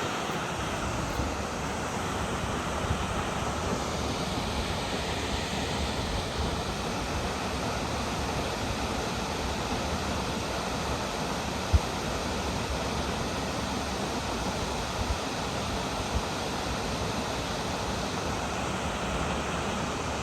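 Salt Creek Falls, a tall plunge waterfall, heard across the canyon as a steady, even rush of falling water. A brief low thump comes about halfway through.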